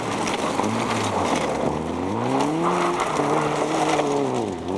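Rally car engine under hard acceleration. Its pitch climbs, holds high, then falls away near the end.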